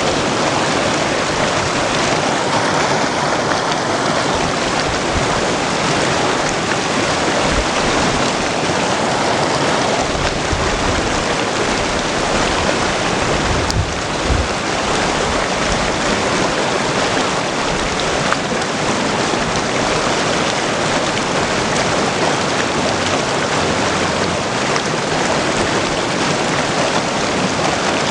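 Mountain creek water rushing and splashing over stones, a steady, dense wash of sound.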